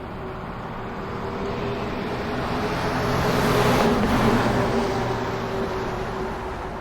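Road traffic noise that swells as a vehicle passes close, loudest about halfway through, then fades.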